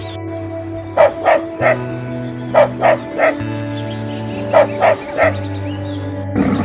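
A dog barking in three sets of three quick barks, over steady background music.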